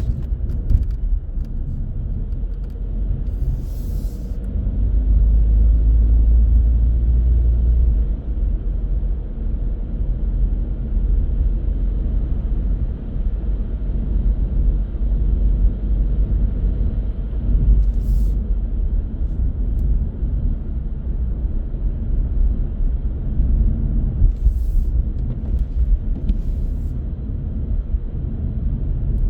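Car driving on city roads: steady low road and engine rumble that swells for a few seconds near the start, with a few faint short ticks.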